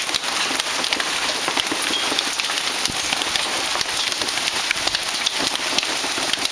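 Hailstorm: a dense, steady clatter of many hailstones striking surfaces.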